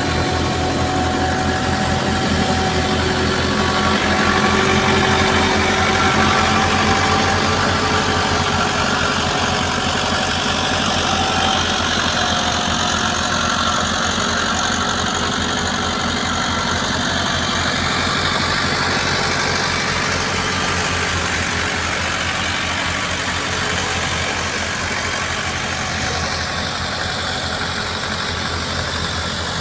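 Tractor engine running steadily while it drives a wheat thresher: an even engine beat under the thresher's constant whirring, hissing noise.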